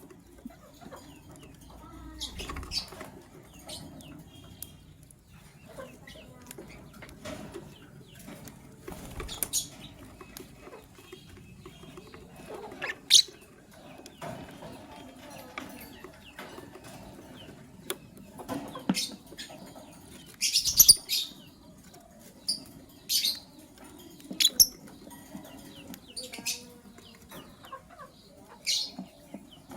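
Lovebirds giving short, sharp chirps every few seconds, with a loud cluster of chirps about twenty seconds in. Soft rustling and wing flutters come between the calls.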